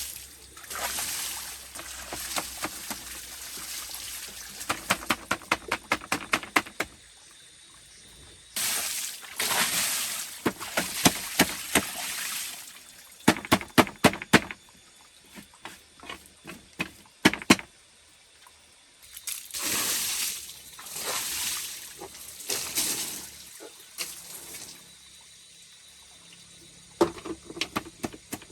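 Water splashing and pouring in bursts of a second or more, with quick runs of sharp clattering knocks in between, several times over.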